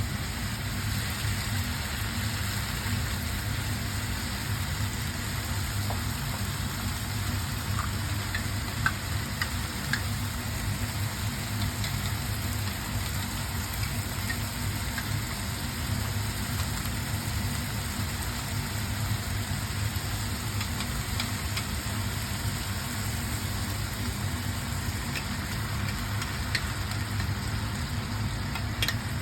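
Food frying in a pan, a steady sizzle with a low hum underneath.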